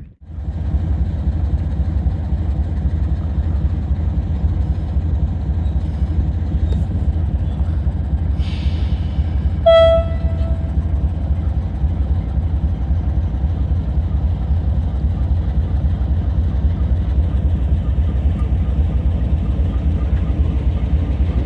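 Passenger train running past with a steady low rumble, with one short blast of the locomotive's horn about ten seconds in.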